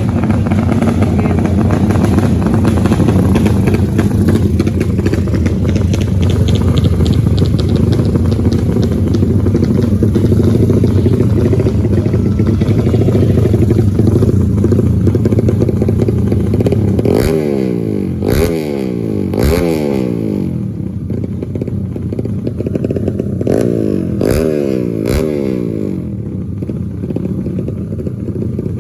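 Motorcycle engines running loud and steady, then in the second half bikes revving hard, the pitch repeatedly climbing and dropping as they accelerate and shift.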